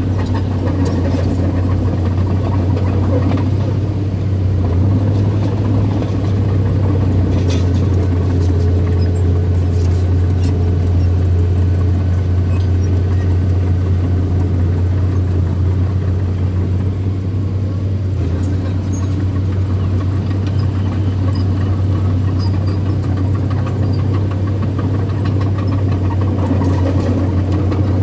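Diesel engine of earthmoving machinery running steadily, with a strong low hum, as a bulldozer and dump trucks work on soil fill.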